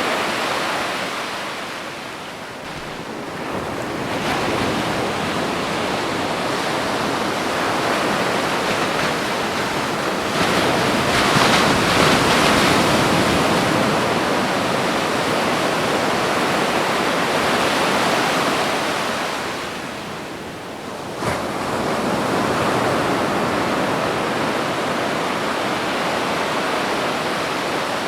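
Ocean surf on a beach: a continuous wash of breaking waves that swells to its loudest about eleven seconds in and falls away twice, with a brief sharp splash just after the second lull.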